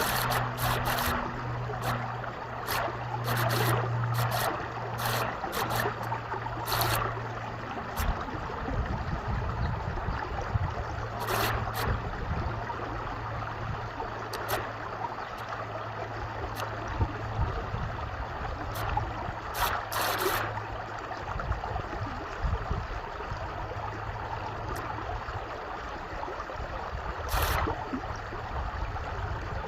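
Stream water flowing and trickling steadily, with occasional brief splashes. A low steady hum runs under it, strongest in the first several seconds.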